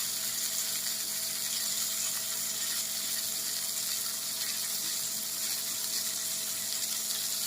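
Kitchen tap running steadily into a sink: an even, continuous hiss with a faint steady hum beneath it.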